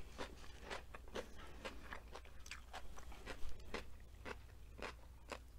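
Close-miked chewing of crunchy food, with a crisp crunch about twice a second and the loudest bite about halfway through.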